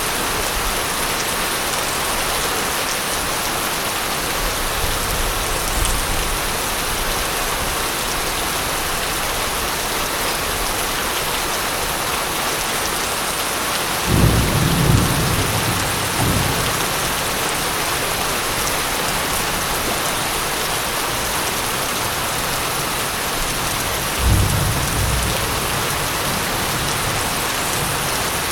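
Steady heavy rainfall hissing, with thunder rumbling twice: a longer low roll about halfway through and a shorter one near the end.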